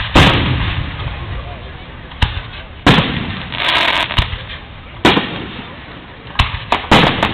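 Aerial firework shells bursting overhead: sharp booms with echoing tails. A loud boom opens, others follow every second or two with a dense patch in the middle, and several come in quick succession near the end.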